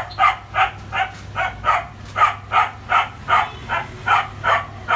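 A dog barking rapidly and without a break, about three barks a second.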